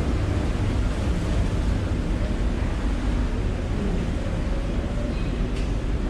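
Steady low rumble of a Star Ferry's engine and the wash of water while the boat is under way, with wind buffeting the microphone.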